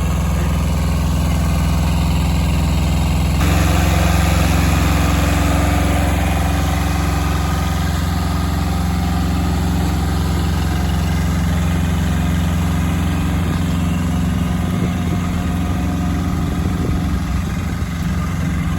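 Old tractor engine running steadily, a little louder from about three and a half seconds in.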